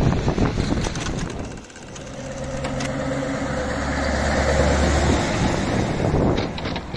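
Scania S730 truck's V8 diesel engine running at a steady idle, its low hum growing louder over a few seconds. Wind noise rumbles on the microphone in the first second or so.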